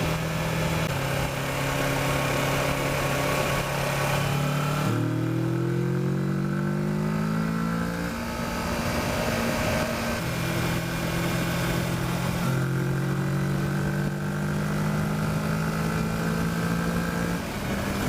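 Kawasaki Versys motorcycle engine under way with wind rush. The engine note holds steady, then about five seconds in it climbs for a few seconds as the bike accelerates, before settling back to a steady cruise.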